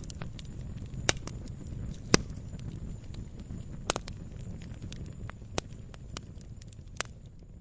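Burning firewood crackling, with sharp irregular pops, the loudest about two seconds in, over a low steady rumble of the fire.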